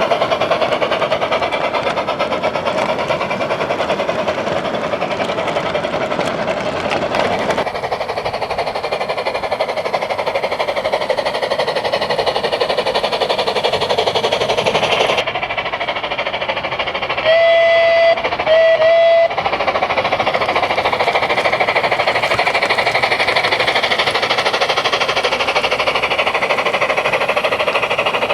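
Märklin Gauge 1 Gt2 4/4 Mallet tank locomotive's electronic steam-sound module running through its loudspeaker as the model runs. About two-thirds of the way in its whistle sounds twice: a longer blast, then a shorter one.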